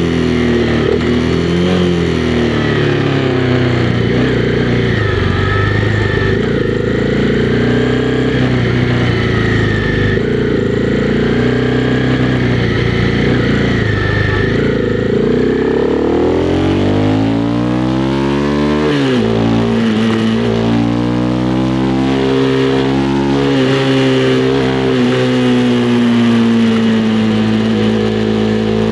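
Honda CB300R's single-cylinder engine running under way, its pitch dipping and rising with the throttle. About two-thirds of the way through it revs up and drops sharply at a gear change, then holds a steady cruise.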